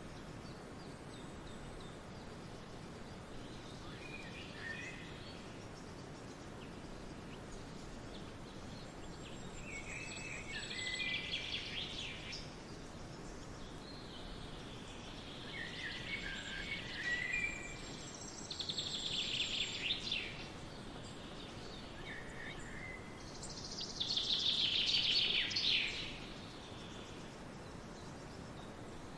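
Songbirds singing over a steady background hiss, in separate phrases a few seconds apart, the loudest and longest near the end.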